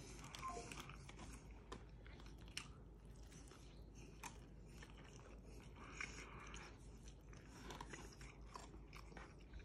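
Faint chewing and crunching of a burger and Cajun fries, with scattered small clicks.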